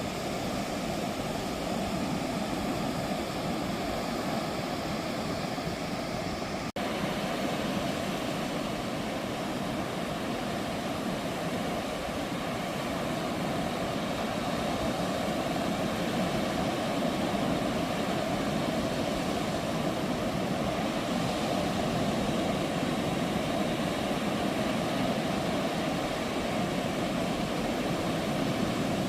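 Ocean surf washing steadily onto the beach, an unbroken rush of breaking waves, with a momentary dropout about seven seconds in.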